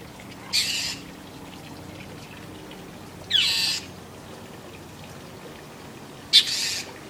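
Mockingbird giving three harsh, raspy calls about three seconds apart, each under half a second: the scolding calls of a mockingbird mobbing a cat.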